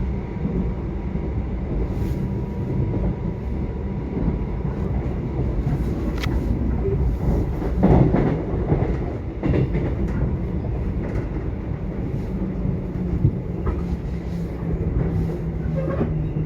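Subway train running: a steady low rumble of the carriage with scattered clicks from the track, a brief high squeal about six seconds in and a louder swell about eight seconds in.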